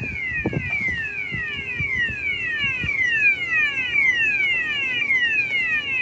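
Gate opener's warning alarm sounding, a repeating electronic tone that falls in pitch with each sweep, about two to three sweeps a second.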